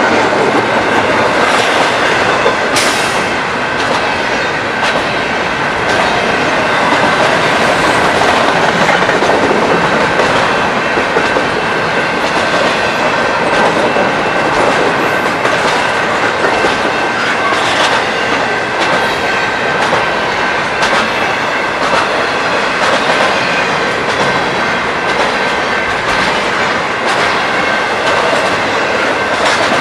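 A train rolling past close by, a steady loud rumble with a rapid clickety-clack of wheels over the rail joints and a thin steady high whine above it.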